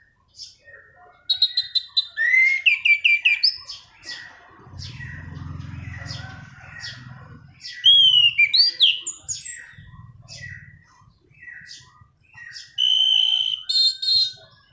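Anis cendana thrush singing vigorously without pause: a varied run of clear whistles, gliding notes and chirps, broken by quick rattling trills near the start and again near the end.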